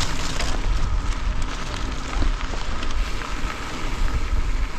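Wind buffeting the microphone, a steady rushing hiss with a heavy low rumble.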